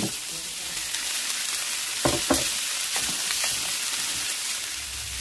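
Sausages and bell peppers sizzling as they fry in a little oil in a skillet with onion and garlic, a steady hiss, with a few light clicks of a utensil against the pan around two and three seconds in.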